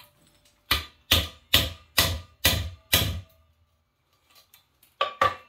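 Hammer blows on a metal tool driven against a part of a seized Honda engine, with a faint metallic ring after each hit. Six steady blows come about two a second, a pause follows, then two quick blows near the end.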